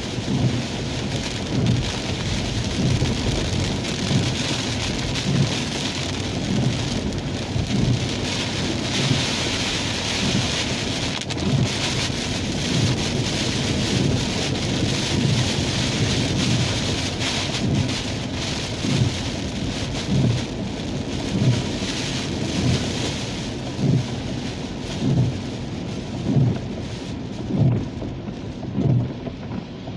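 Rain on a car, a steady hiss throughout, with a short low thump repeating about once a second.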